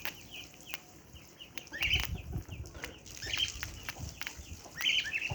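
Chickens calling, a short cluster of calls about every second and a half, with scattered light clicks and taps among them.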